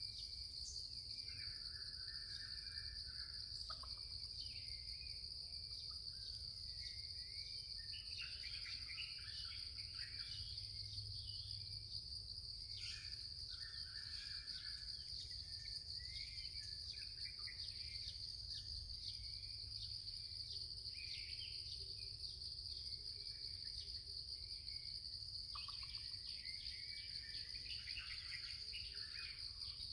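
Insect chorus keeping up a steady, unbroken high drone, with many small birds chirping and trilling over it on and off.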